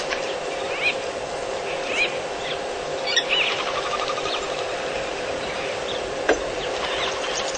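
A bird calling a short arched chirp over and over, roughly once a second, over a steady electrical hum, with one sharp click a little past six seconds in.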